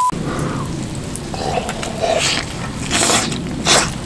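A person eating a big mouthful of thick rolled egg omelette: close-up chewing and mouth sounds, with sharper smacks about two, three and three and a half seconds in.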